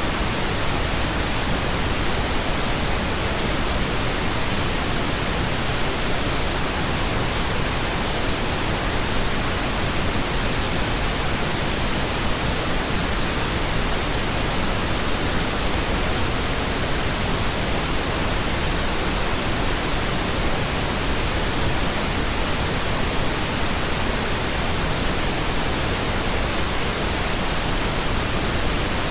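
Steady pink noise: an even, unchanging hiss across the whole range of pitch, with no events.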